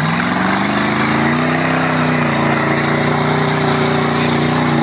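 Car engine revving as an old sedan is driven off across a muddy field: the engine note climbs over the first second and a half, then holds steady under load.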